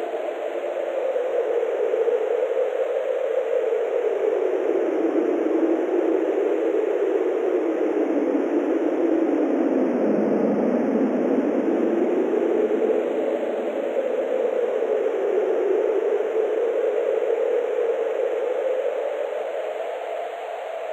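Steady rushing wind noise with a hollow whooshing band that slowly sinks in pitch toward the middle and rises again.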